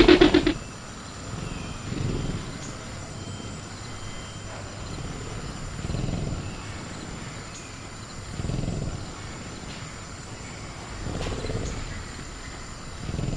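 Velociraptor creature sound effect: a short pulsing growl right at the start, then low, soft growling breaths swelling about every three seconds. A faint steady cricket hum runs underneath.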